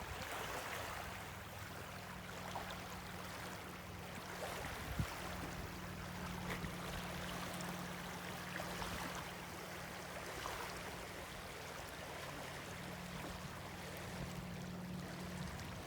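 Running water, like a stream, over a steady low hum.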